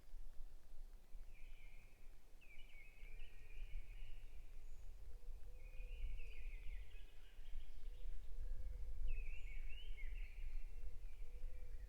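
Forest birds singing and calling, with short chirping phrases every couple of seconds over a steady low rumble. From about five seconds in, a lower-pitched call repeats several times in short runs.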